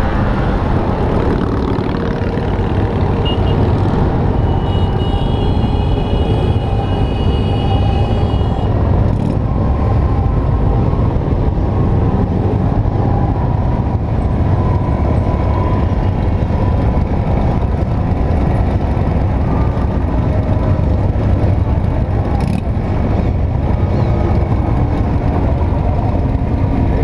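Many motorcycle engines running in a procession, a loud steady rumble. About five seconds in, a high steady tone sounds for some four seconds over it.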